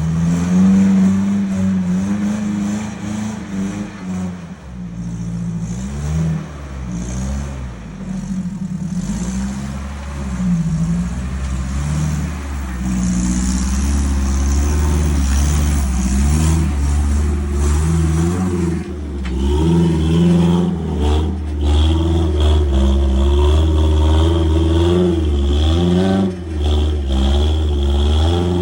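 Toyota truck's 3RZ 2.7-litre four-cylinder engine running and revving up and down over and over. A steady high whine joins about two-thirds of the way through.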